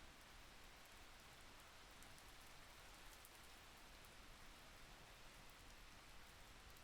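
Faint steady rain: an even hiss with scattered light drop ticks.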